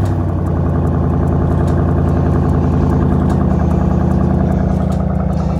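Car engine idling, freshly started, through a newly fitted MBRP axle-back exhaust: a steady, low exhaust note.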